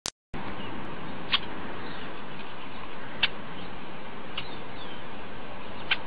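Steady hiss through a security camera's microphone, opening with a click, with four short, sharp bird chirps at uneven intervals.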